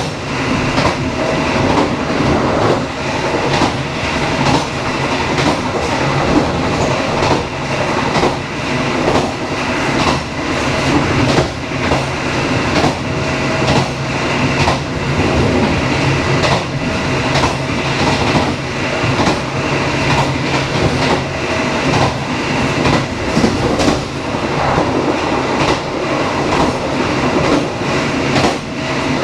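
Dharmawangsa passenger train running along the line, a steady rumble of wheels on rails with frequent clacks as the wheels pass over rail joints.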